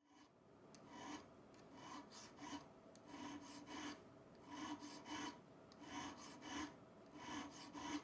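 Rusty steel edge iron being filed by hand: rasping back-and-forth strokes, often in pairs, about one a second.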